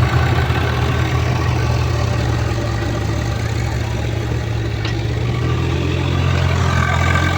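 Heavy diesel engine running steadily with a low, even hum, its pitch shifting slightly about six seconds in.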